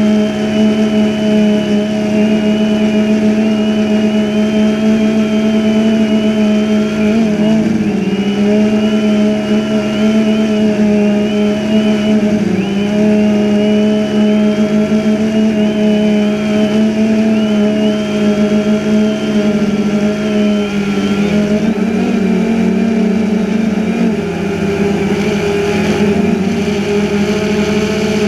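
DJI Phantom 2 quadcopter's motors and propellers giving a loud, steady whine. The pitch dips briefly a few times and shifts about three quarters of the way through.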